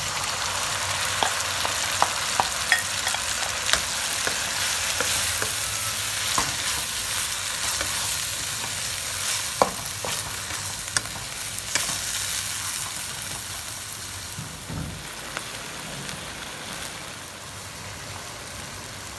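Fermented soybeans sizzling in hot oil as they are tipped into a wok of frying shallots and ginger, then stirred, with scattered sharp clicks and scrapes of a wooden spatula against the wok. The sizzle eases off in the last few seconds.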